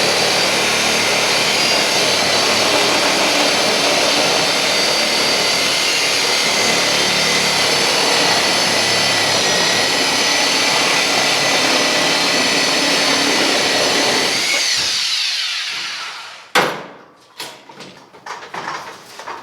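Electric power tool running steadily at full speed with a high whine, then released about fourteen seconds in and winding down with a falling whine. A few sharp knocks and clicks follow near the end.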